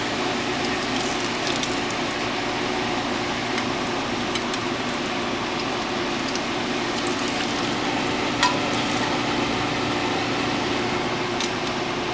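Bacon sizzling in a frying pan, with scattered small crackles and one sharper click about eight and a half seconds in.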